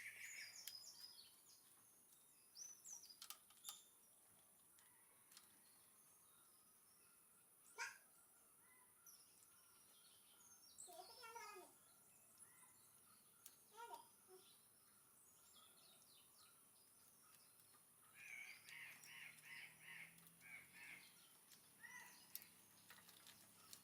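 Faint bird calls and chirps, scattered and intermittent, over near silence, with a run of quick repeated notes near the end.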